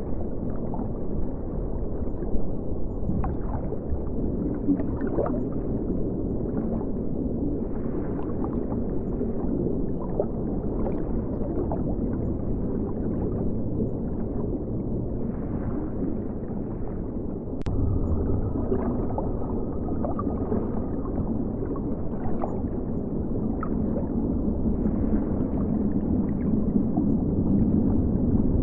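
River water flowing and gurgling, muffled, with nothing high-pitched in it. A single sharp click comes about two-thirds of the way through.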